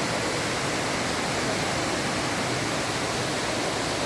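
Rushing water of a stream, a steady, even rush with no breaks.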